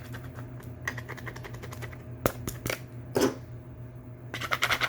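Hard plastic clicking and rattling as the laptop's repaired ABS plastic case is handled. There is a quick run of light ticks about a second in, a few sharp single clicks around the middle, and a denser scratchy rattle near the end.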